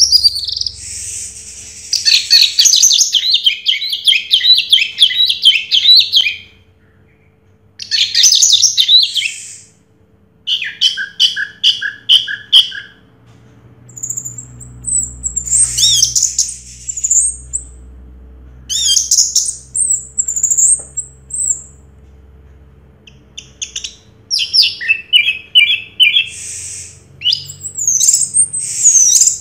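Orange-headed thrush singing: a run of loud, varied phrases of fast trills, repeated chirps and quick gliding notes, broken by short pauses.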